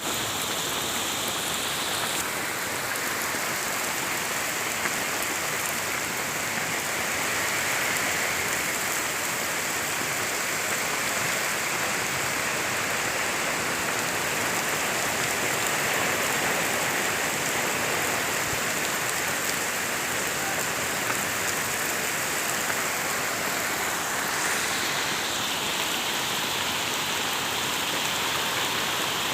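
Heavy rain falling, a steady even hiss of rain on surfaces.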